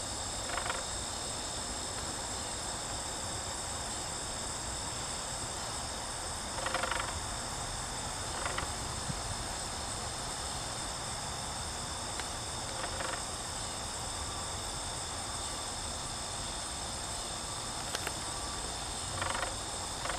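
Steady high chirring of crickets, with honeybees from the hive buzzing briefly past about five times.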